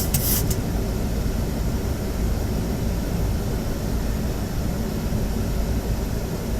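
Steady airflow and engine rumble inside a Boeing 737 flight deck on approach, with the landing gear down. A short burst of hiss comes at the very start.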